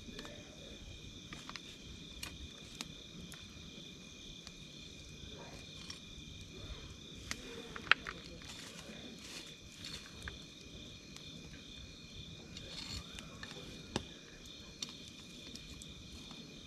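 Wood campfire crackling with scattered sharp pops, the loudest about eight seconds in and another near fourteen, over a steady high chorus of chirping night insects.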